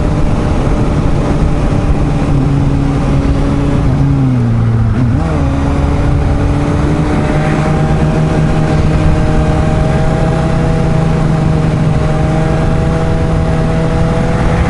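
Suzuki GSR750's inline-four engine running at road speed over steady wind rush. Its note sags about four seconds in, then picks back up and holds steady.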